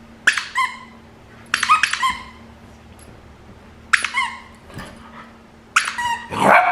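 An 8-week-old golden retriever puppy yipping in four short bursts of high-pitched yaps, each note dropping in pitch. The puppy is reacting to a sound its owner makes with a new toy.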